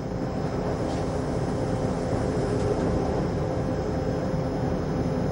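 Electric train running along the track: a steady rumble of wheels on rails with a faint steady hum over it.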